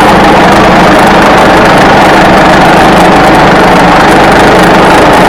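Engine of a log-milling setup running steadily and loudly at an unchanging speed while a log is milled.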